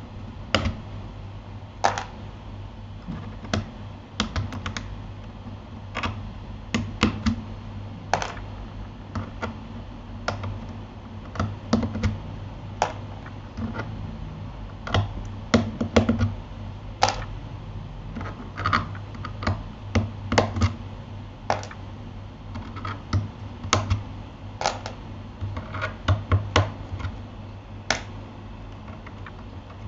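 Typing on a Keychron K8 mechanical keyboard fitted with Gateron Aliaz silent switches: irregular, muted keystrokes, a few a second with short pauses, over a steady low hum.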